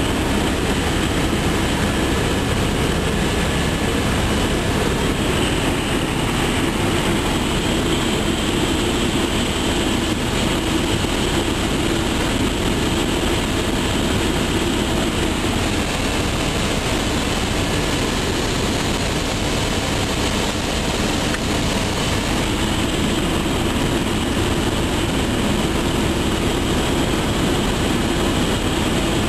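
Helicopter engine and rotor noise heard from on board in flight: a loud, steady drone with no change.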